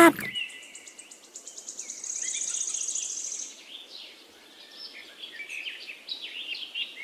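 Birds chirping and twittering, with a fast high trill from about one to three and a half seconds in.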